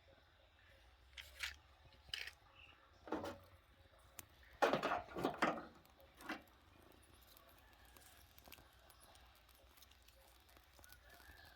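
A few short rattling, rustling handling sounds, the loudest cluster about five seconds in, against quiet room tone.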